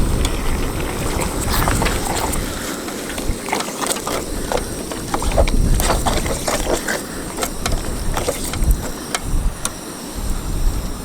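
Strong wind buffeting the microphone in gusts, with scattered light clicks and knocks throughout.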